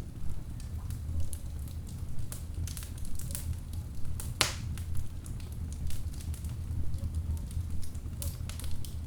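Wood logs burning in a fireplace: a steady low rumble under irregular crackles and snaps, with one loud pop about halfway through.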